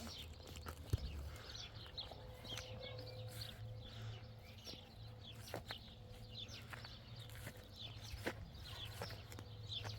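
Birds chirping, many short high calls throughout, over a steady low hum, with scattered sharp clicks, the loudest about a second in.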